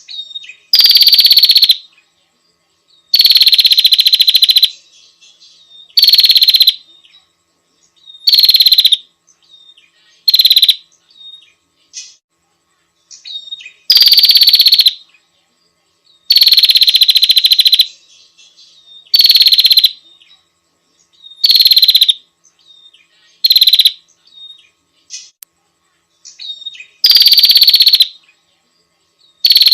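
Female prinia (prenjak) calling to attract a male: loud, dense buzzy trills, each lasting from half a second to about two seconds, repeated every couple of seconds with faint short chirps in between.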